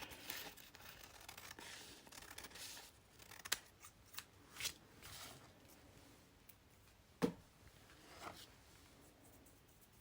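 Scissors snipping paper in a few separate cuts, with soft paper rustling before them.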